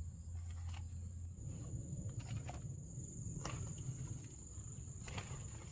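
A steady high-pitched insect trill over a low rumble, with a few sharp clicks.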